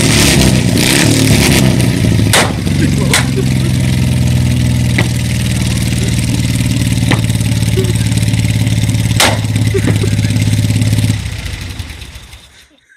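Dnepr K-750 motorcycle's side-valve flat-twin engine running on its first start: uneven revs at first, then a steady idle with a few sharp clicks. The sound dies away near the end.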